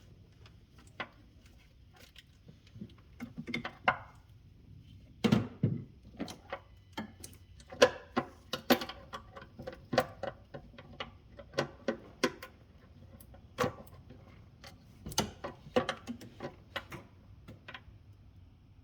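Irregular clicks and knocks at uneven spacing, a few louder thunks about five seconds in and again near fifteen seconds.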